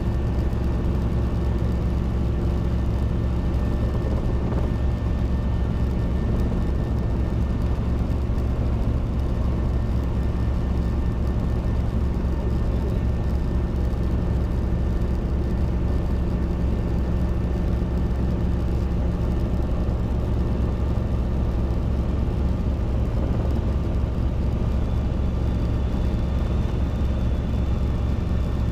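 Robinson R22 helicopter in cruise flight: its piston engine and rotors running with a steady, unchanging drone.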